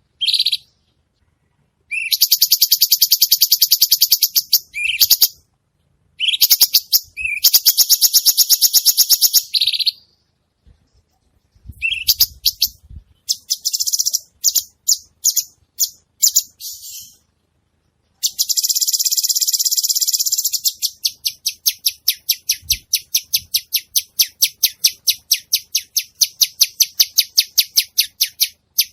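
Cucak cungkok songbird singing in loud, high-pitched, very rapid rattling trills, several bursts of a few seconds each with short pauses; near the end one long burst gradually slows into separate chirps.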